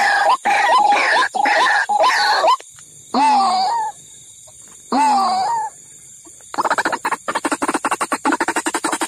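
White-breasted waterhen calls played as a trapping lure. A run of short calls repeats about twice a second, then two longer calls come with quiet gaps between, and about two-thirds through a fast pulsed chatter begins.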